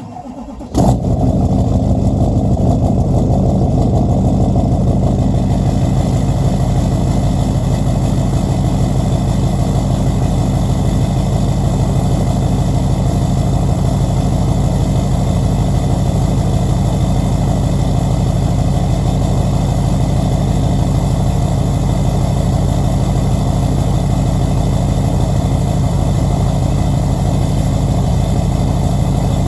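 LLY Duramax 6.6-litre V8 turbodiesel cold-started: a brief crank of under a second, then it fires and settles into a steady idle through a 5-inch MBRP exhaust with a 3-inch downpipe.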